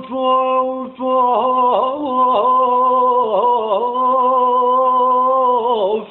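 Solo unaccompanied voice singing a long, wordless Arabic-style held note, ornamented with wavering melismatic turns, with a short break for breath about a second in.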